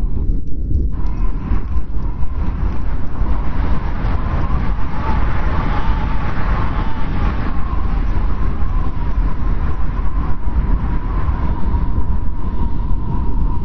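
Strong wind of a snowstorm blowing steadily, a deep rumble with a thin whistling tone over it, swelling in a gust around the middle.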